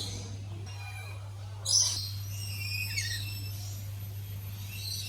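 Birds calling over a steady low hum: a loud, harsh call about two seconds in, then short high chirps that fall in pitch.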